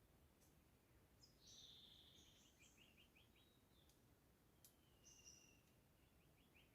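Faint birdsong: a songbird repeats a high phrase, each one ending in a quick run of short notes, about three times, over a soft background hiss.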